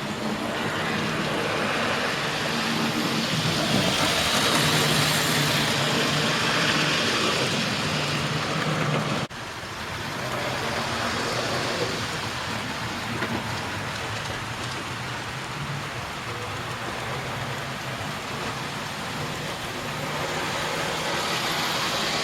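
00 gauge model trains running round the layout: a steady rattling rumble of wheels on the track with a low motor hum, swelling as a train passes close in the first few seconds. The sound breaks off abruptly about nine seconds in, then continues a little quieter and grows again near the end.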